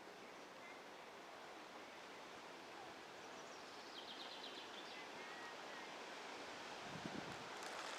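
Faint outdoor background noise: an even hiss, with a few faint high chirps and a short, rapid run of high ticks about four seconds in. A soft low thump comes near the end.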